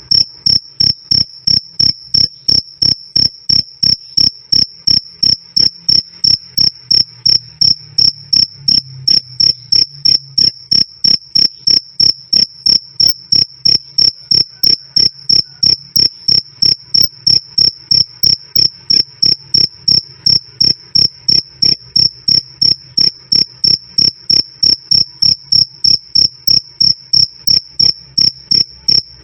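A cricket chirping loud and clear: a single high-pitched chirp repeated in a steady, even rhythm of about three a second.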